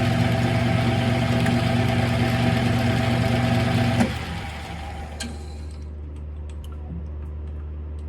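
Smithy CB-1220XL 3-in-1 lathe running with a steady motor and gear whine, switched off about four seconds in and spinning down, leaving a low steady hum with a few light clicks.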